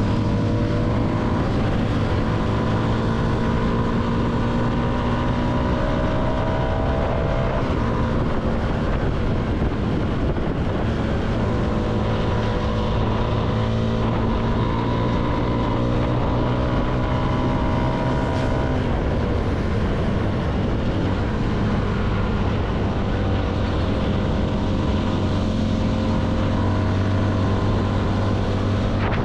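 CFMoto motorcycle engine pulling along the road, its pitch climbing and then dropping at an upshift, twice, over steady wind rush.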